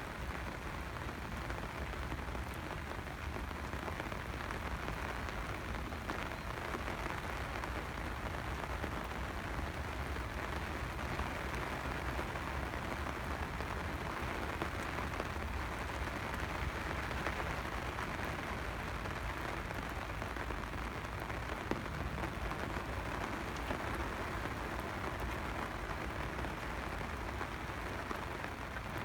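Steady rain falling, an even, unbroken hiss with no pause.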